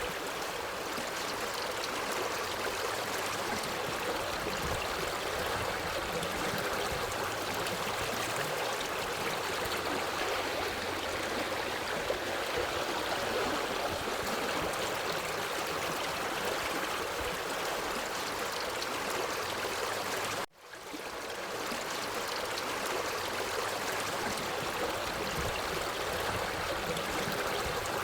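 Forest stream flowing over rocks: a steady, even rush and babble of water. About two-thirds of the way through it cuts out for a split second and fades back in, the seam where the recording loops.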